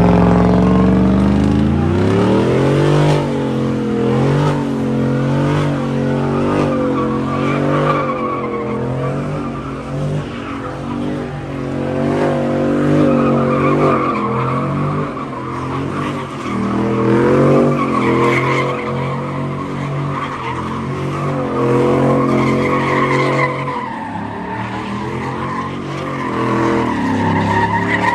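A car's engine revving hard while its tires squeal in a sustained slide: the revs climb over the first couple of seconds, then rise and fall about once a second as the throttle is worked.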